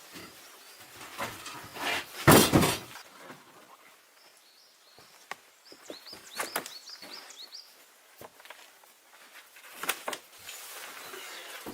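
A heavy thud about two seconds in, followed by a few lighter knocks, with a run of short high chirps in between.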